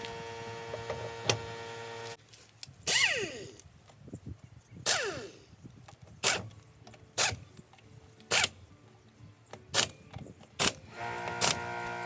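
Air impact wrench on the wheel nuts: two hissing bursts whose pitch falls away, then a string of short sharp blips about once a second. Background music plays at the start and again near the end.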